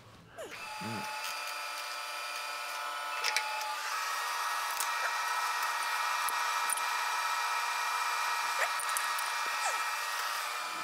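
Small electric drill spinning up about half a second in and then running steadily with a high-pitched whine while boring a starter hole into the end of a Mag-Lite flashlight.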